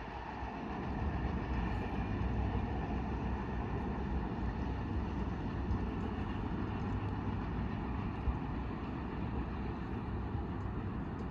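Freight train rolling past: a steady low rumble from the cars on the rails.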